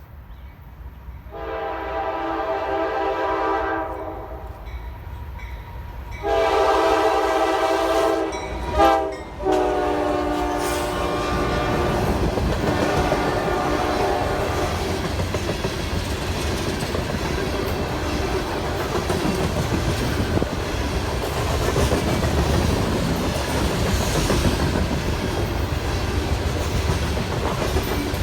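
Locomotive air horn sounding a multi-note chord in three long blasts, the last one tapering off, as the train closes in. Then the train rolls past with a steady rumble and clickety-clack of wheels on rail joints.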